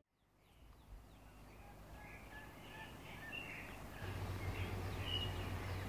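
Faint outdoor ambience with small birds chirping: short, high calls scattered across a few seconds. A low steady hum grows louder about four seconds in.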